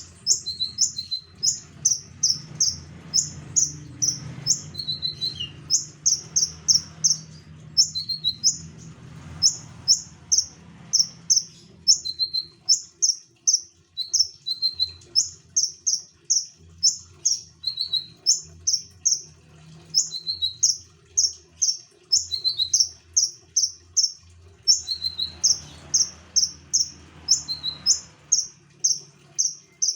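A konin songbird in full song: short, high, sharp notes given in quick groups of two to four, repeated about once a second without a break.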